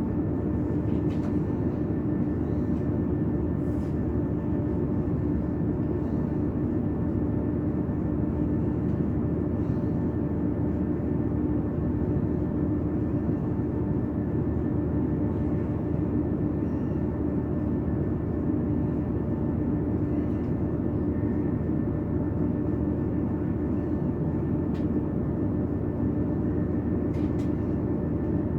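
Passenger train running at steady speed, heard from inside the carriage: an even rumble with a constant hum and a few faint clicks.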